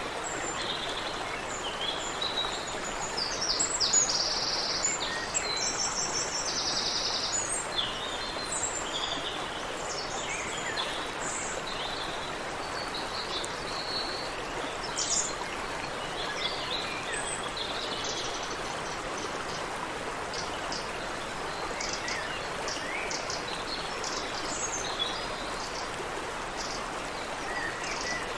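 Stream water running steadily, with several birds singing and calling over it. A fast trill of rapidly repeated notes comes about four to seven seconds in, and the chirps grow sparser after that.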